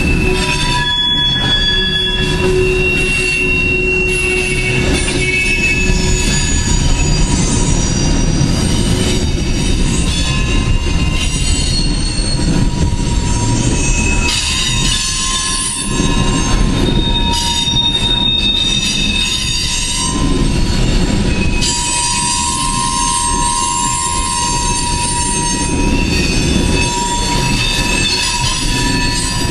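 Freight coal train's cars rolling past: a steady low rumble of steel wheels on rail, with high-pitched metal wheel squeal that comes and goes at shifting pitches.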